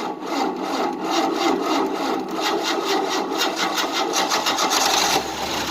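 The 1988 Tennant 255 Series II sweeper's engine being cranked by its starter motor, turning over in a steady rhythm without catching, and then stopping about five seconds in. The owner blames a battery that has been dead a long time and lacks the power to start it.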